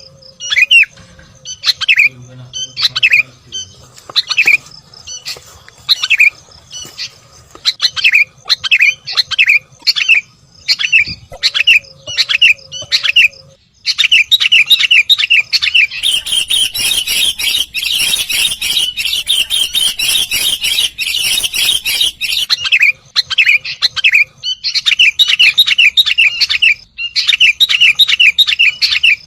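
Sooty-headed bulbul calling: a string of short, sharp falling notes, spaced out at first, then running together into dense continuous chatter about halfway through, with a higher hiss-like layer for several seconds.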